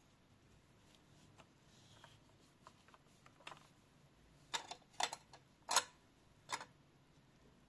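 A series of short, sharp clicks and taps at uneven intervals, faint at first, with the loudest five or six coming in the second half.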